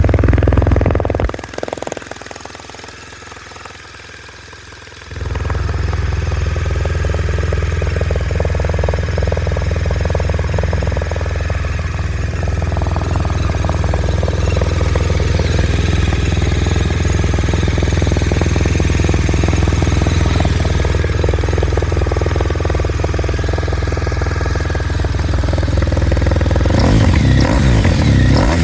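BMW R1200RS boxer twin idling through an aftermarket GPR silencer. The engine sound drops away for a few seconds just after the start, then comes back steady, and the throttle is blipped in short revs near the end.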